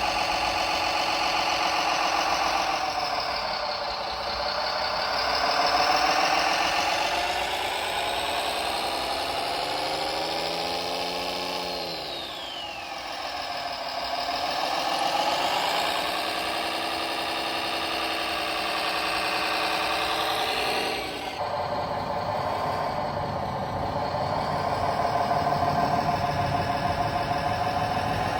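Electronic engine-sound module of an RC model vehicle playing a simulated diesel engine, its pitch rising and falling several times as it revs and drops back. About 21 seconds in, the revving sound cuts off and a steadier, lower running sound carries on.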